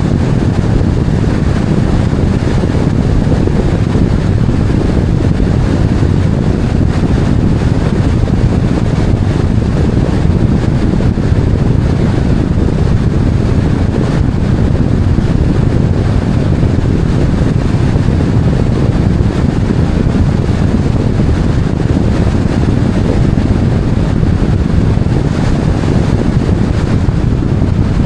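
Steady, even low rumble of wind and road noise from a moving vehicle.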